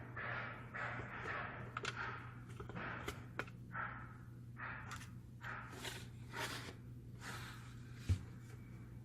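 Hands working on a copier fuser unit: a run of short scraping strokes with small clicks between them, and a single knock about eight seconds in, over a steady low hum.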